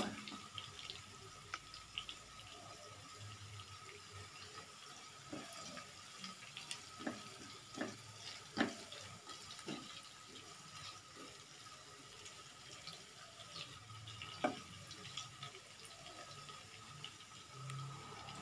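Sliced shallots, garlic and chilies cooking in oil in a stone-coated wok, a faint steady hiss, with several sharp clicks of a spatula against the pan in the middle stretch as the mixture is stirred.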